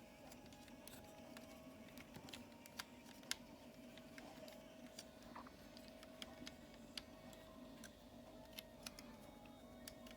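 Faint irregular plastic clicks and taps of a transformable plastic toy robot's parts being handled and pushed together while a backpack piece is tried for a place to tab in; the sharpest click comes about three seconds in. A steady faint hum runs underneath.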